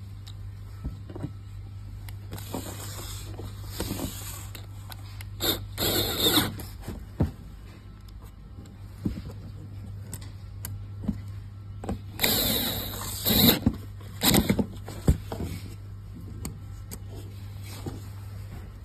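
Scattered clicks and short rustling, scraping bursts from parts being handled, over a steady low hum.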